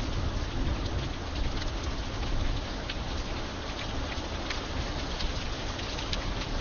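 Steady rain with scattered individual drops ticking sharply. A low thunder rumble dies away within the first second.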